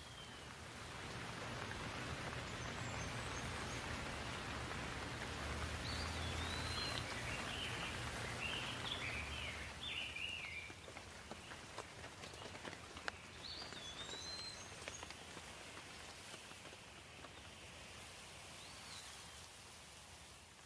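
Steady rushing water noise, louder in the first half, with a songbird giving short chirps several times over it.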